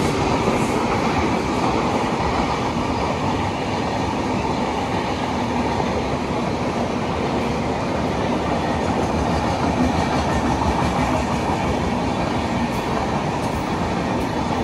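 Double-decker passenger coaches rolling past on the track: a steady, loud running noise of steel wheels on rail.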